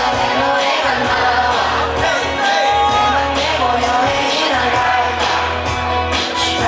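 Live pop/hip-hop performance through a concert PA: a male singer singing a gliding melody over a loud backing track with a steady heavy bass line.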